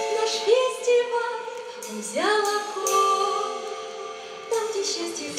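Female voices singing a song over musical accompaniment, holding long notes that slide from one pitch to the next.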